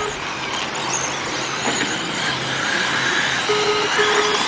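Sprint cars running laps on a dirt oval, their engines heard as a steady mass of noise. Near the end, two short electronic beeps sound.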